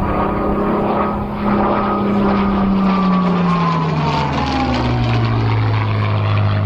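WWII piston-engined fighter flying past, its propeller engine note dropping in pitch about halfway through as it passes.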